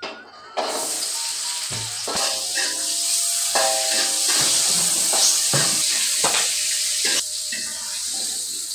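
Sliced shallots hitting hot oil in a wok and frying with a loud, steady sizzle that starts suddenly about half a second in, while a metal spatula stirs them with repeated scrapes and knocks against the pan.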